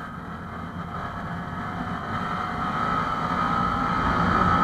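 Honda MSX SF minibike's small single-cylinder engine running steadily, growing gradually louder.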